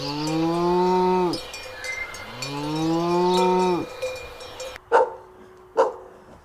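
A cow mooing twice: two long, low calls, each rising at the start and falling off at the end. Then, near the end, two short dog barks.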